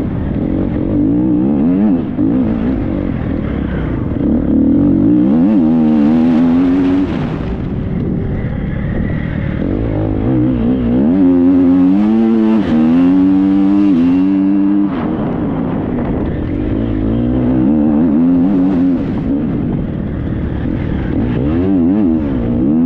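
Triumph 250 dirt bike engine being ridden hard, its revs climbing and dropping over and over with the throttle and gear changes, with wind and rushing noise on the helmet-mounted microphone.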